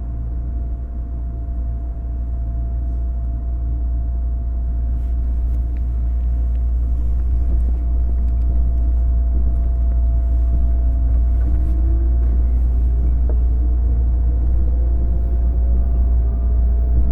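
JR 205 series electric train car (MoHa 205-384) with MT61 externally-fanned traction motors running: a heavy low rumble with a constant hum. From about ten seconds in, the motor whine rises in pitch as the train gathers speed, and a few clicks come midway.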